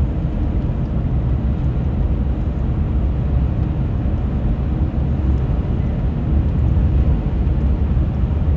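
Steady road and engine noise of a truck driving, a constant low rumble.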